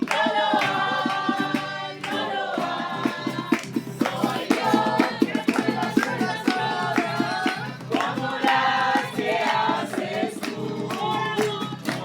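A group of people singing a worship song together over a steady rhythmic accompaniment.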